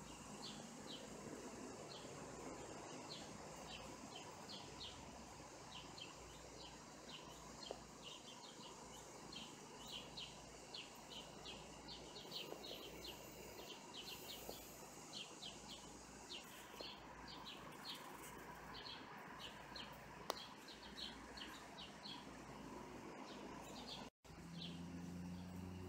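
Small birds chirping, short high chirps repeated two or three times a second over a faint steady outdoor background; the sound cuts out for an instant near the end.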